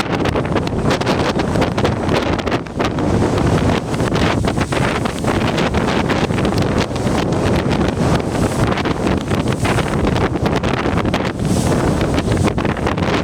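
Strong storm wind blowing across the microphone in gusts, a loud steady rush with constant buffeting, over the noise of crashing ocean surf.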